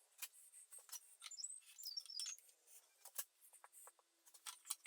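Near silence with faint light ticks and a few brief high squeaks from hand-marking hole positions on a wooden workpiece.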